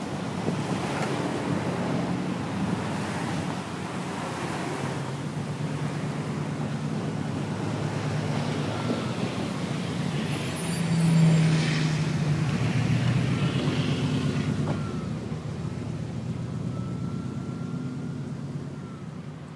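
Truck engine running as the truck drives, pushing snow with a plywood plow; the engine pitch rises and falls, is loudest about halfway through, and fades near the end.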